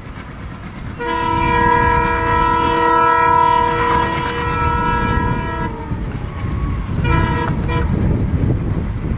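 Diesel locomotive horn sounding a long multi-tone blast of about five seconds, starting a second in, then a short second blast about seven seconds in, over the low rumble of the train.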